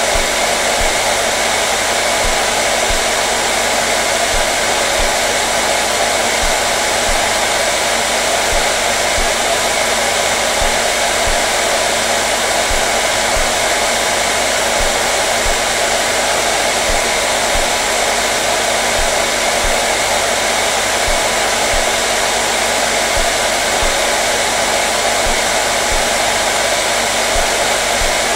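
Hair dryer running at a constant speed: a steady, unbroken rush of blown air with a faint motor hum.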